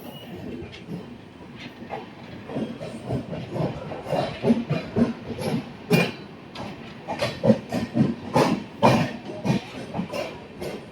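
Train running along the track past a station platform, its wheels clacking over rail joints. The clacks come faster and louder from about four seconds in.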